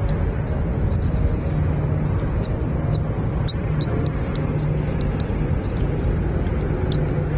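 Steady low rumbling noise with a scattering of faint, brief high-pitched bird chirps through it.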